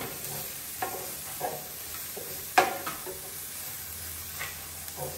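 Onions, garlic and herbs sizzling in a hot pot while being stirred, with a few knocks of the spoon against the pot, the loudest about two and a half seconds in.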